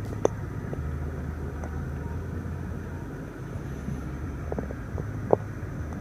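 Sharp clicks of the car's interior control buttons being pressed: one loud click just after the start, a few fainter ones, then another loud click near the end. Underneath is a steady low rumble.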